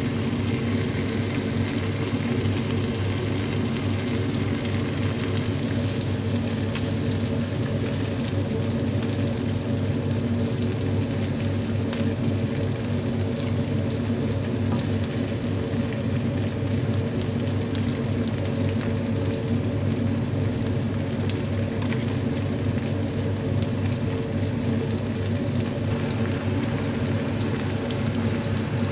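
Fried potato, eggplant and tomato sizzling steadily in a pot of tomato sauce, with a dense fine crackle. A steady low hum runs beneath it.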